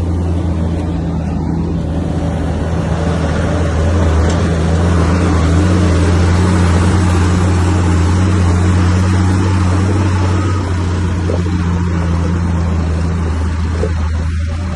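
Heavy diesel earthmoving machine engine running steadily with a deep drone. It swells a little about four seconds in and eases slightly later on.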